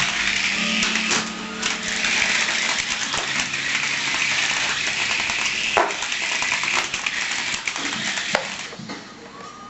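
Small toy helicopter's electric motor and rotor whirring steadily, with repeated light clicks and knocks, and the whir dies away near the end.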